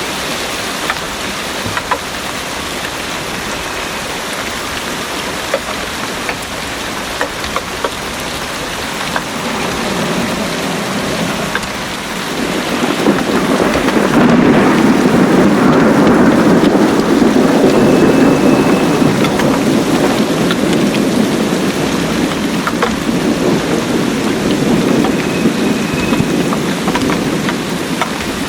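Heavy rain falling steadily, with scattered drips ticking. About halfway through, a long roll of thunder swells up and rumbles for over ten seconds before fading.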